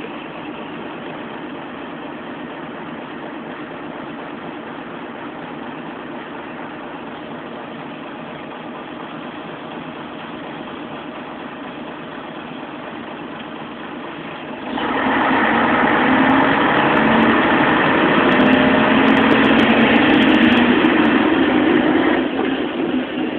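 Scania bus diesel engine idling steadily. About two-thirds of the way through it suddenly gets much louder and rises slightly in pitch as the bus accelerates, then eases off near the end.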